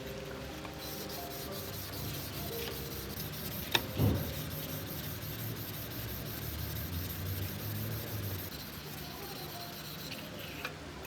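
Steady rubbing of hand work on a rusty knife, with a sharp knock about four seconds in. Faint background music underneath.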